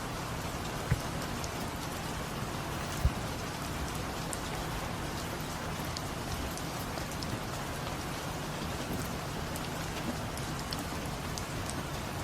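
Steady rain falling with scattered light drip ticks. Two short dull thumps stand out, about one second and three seconds in.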